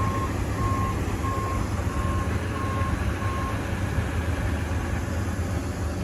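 Vehicle reversing alarm beeping about every two-thirds of a second over the steady low rumble of a running engine; the beeps stop about three and a half seconds in while the engine keeps running.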